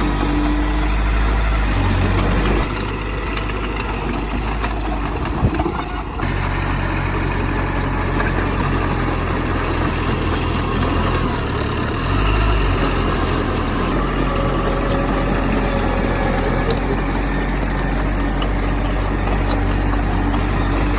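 Heavy diesel engine of earth-moving machinery running steadily, its note shifting a few times, with a short clank about five seconds in.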